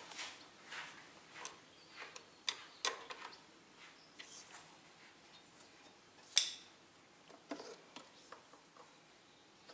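Scattered light clicks and taps of small parts and fuel line being handled while fitting new fuel line to a lawn tractor, with one sharper click about six seconds in.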